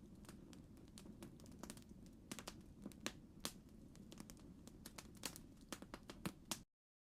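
Campfire crackling: irregular sharp pops and snaps over a low, steady rumble, cutting off abruptly near the end.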